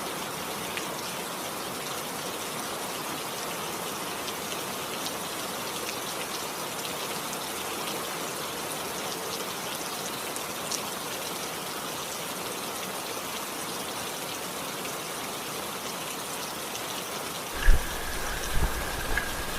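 Steady rain falling, an even hiss with scattered drop ticks. Near the end come a few loud low thumps, and a thin steady tone starts.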